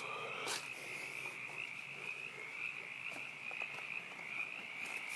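A chorus of frogs croaking from a pond, a steady, high trill that goes on without a break, with a couple of faint clicks over it.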